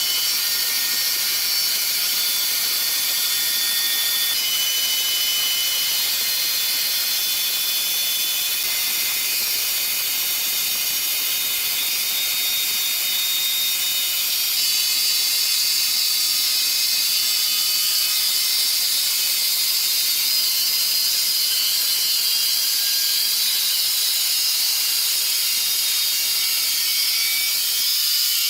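Sawmill machinery running: a steady high-pitched whine and hiss, changing slightly a few seconds in and again about halfway through.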